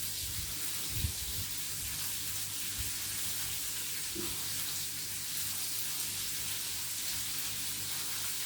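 Flour-and-egg-coated chicken fillets frying in hot peanut oil in a pan, giving a steady sizzle. A steady low hum runs underneath, with a couple of soft knocks about a second in.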